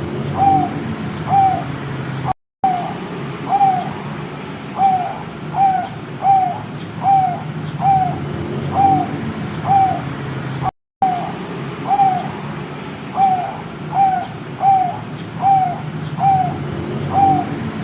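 Young zebra dove (perkutut) calling, a short cooing note repeated about once a second over a steady low hum. The sound drops out briefly twice.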